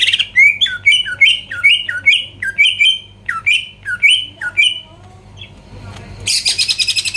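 Cucak ijo (leafbird) singing loudly: a quick run of down-slurred whistled notes, about two to three a second, then after a short pause a harsh, buzzy chattering burst near the end.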